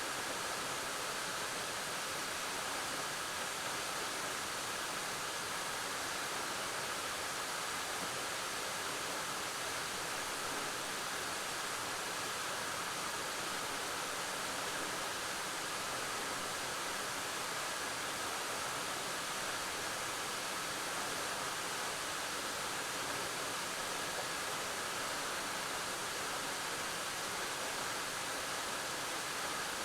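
Waterfall falling steadily into a pool, a constant even rush of water with no change in level.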